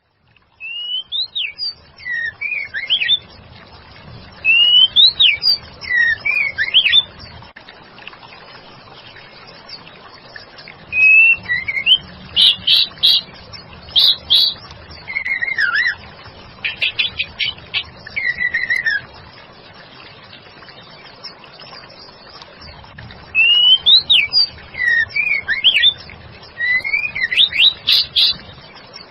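Female white-rumped shama singing in bursts of whistled phrases, with quick up-and-down glides and rapid rattling trills, separated by pauses of a few seconds; a steady faint hiss lies underneath.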